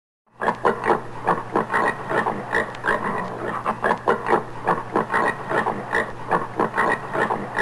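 Common warthog grunting in a fast, continuous series, about three to four grunts a second, starting about a third of a second in.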